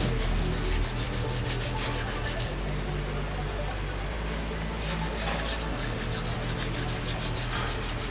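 Steady abrasive rubbing that runs throughout, like sanding or scraping a surface.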